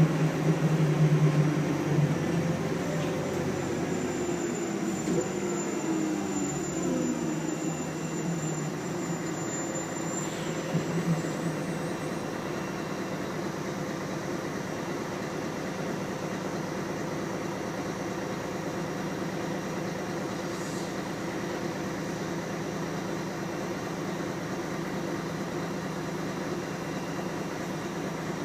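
Scania L113CRB bus's 11-litre six-cylinder diesel engine and ZF automatic gearbox, heard from on board: the engine and transmission whine fall in pitch over the first several seconds as the bus slows, then settle into a steady, quieter low hum.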